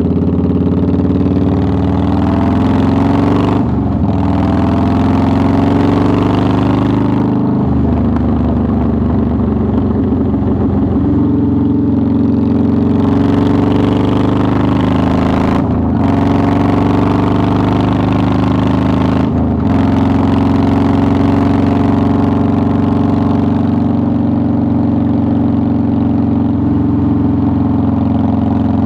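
2009 Harley-Davidson Softail Deluxe's V-twin engine under way, its pitch climbing then dipping briefly four times as the rider shifts up through the gears, then holding a steady cruise for the last several seconds.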